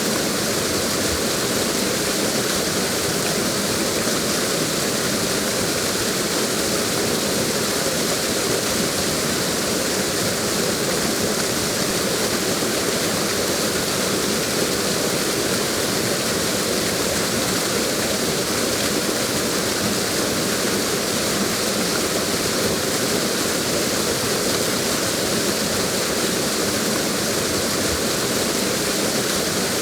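Waterfall rushing in a steady, unbroken roar of falling water, unchanging in level throughout.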